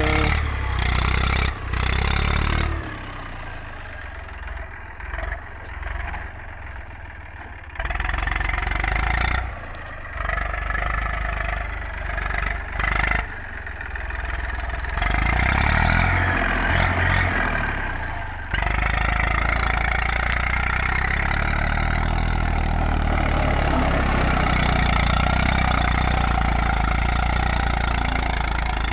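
Eicher 380 tractor engine running steadily. Its level jumps up and down sharply a few times, and it is loudest and steadiest over the last ten seconds.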